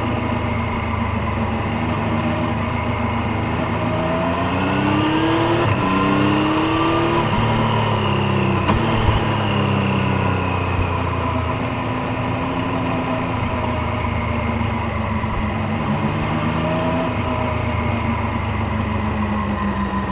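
Triumph Street Triple 765 Moto2 Edition's inline three-cylinder engine and exhaust under way. The revs climb about four seconds in, drop back about eight seconds in, then rise and fall more gently as the bike accelerates and eases off.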